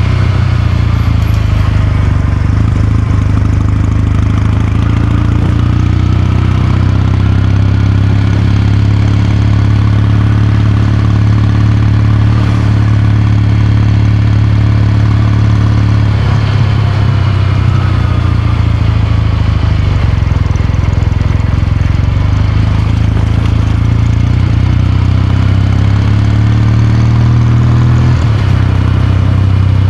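Kawasaki Meguro K3's 773 cc air-cooled parallel-twin running under way. The exhaust note climbs slowly in pitch, then drops off sharply about halfway through. It climbs again and drops once more near the end.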